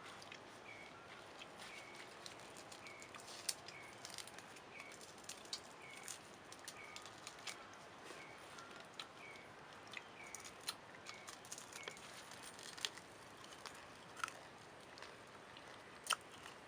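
A bird repeats a short high chirp about once a second over faint outdoor background, stopping a few seconds before the end. Scattered light clicks and snaps come from sticks and beetle shells being handled beside the fire.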